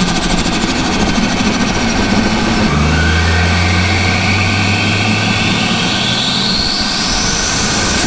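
Turbocharged Ford Barra 4.0 L inline-six running loud, with a high whistle that climbs slowly in pitch over several seconds from a little under halfway in.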